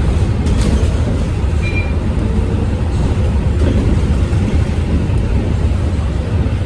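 Scania K230UB city bus in motion: a steady, loud low rumble of its diesel engine and road noise.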